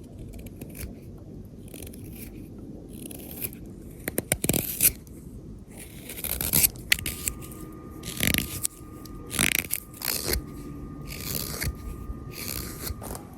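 Hook knife scooping out a wooden spoon's bowl in green wood: a series of irregular scraping cuts of the blade through the wood.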